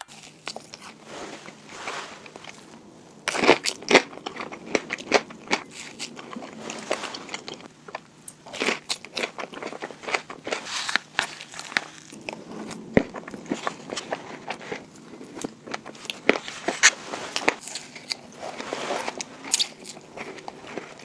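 Close-miked biting, crunching and chewing of salted caramel sweets: a loud crunching bite about three seconds in, then irregular crunches and chewing.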